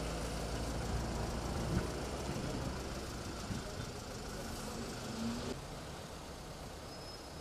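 A motor vehicle engine idling close by, with street traffic behind it; about five and a half seconds in, the sound drops suddenly to quieter traffic.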